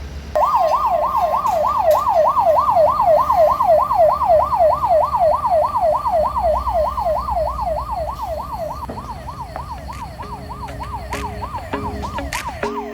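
Electronic yelp siren on a tow truck, sweeping rapidly up and down about three times a second over the low hum of the idling engine. It starts abruptly and grows quieter after about nine seconds.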